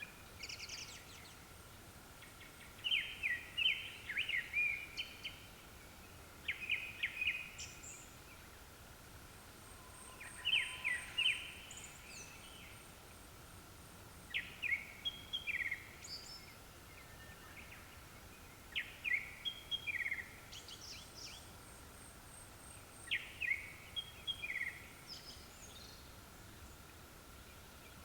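Japanese thrush (kuro-tsugumi) singing: short, varied, fluty song phrases repeated about every four seconds, seven times, with pauses between.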